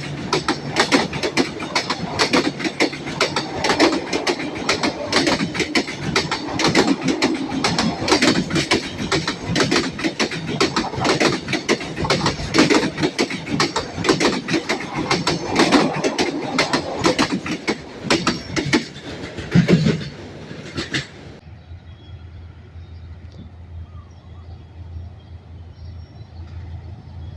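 A train's wheels clattering rapidly over rail joints and points as its cars pass for about twenty seconds. The clatter cuts off suddenly as the train clears, leaving a quieter, steady low hum.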